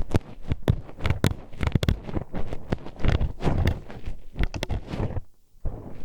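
Metal hairpin poked and scraped inside an ear microphone, giving close, irregular clicking and scratching with a muffled rumble, and a short pause about five seconds in.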